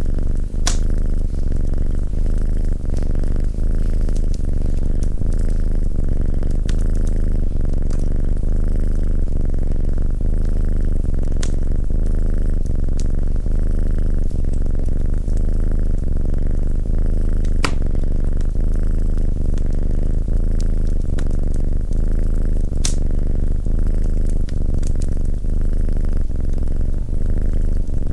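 Cat purring steadily, close up, with a wood fire crackling and giving a few sharp pops.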